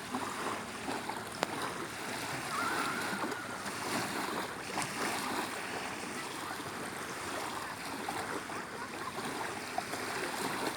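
Sea waves washing steadily against the shore, with a single sharp click about a second and a half in.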